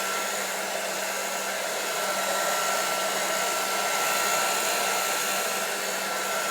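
Handheld hair dryer blowing steadily, a smooth rush of air with a thin steady whine over it.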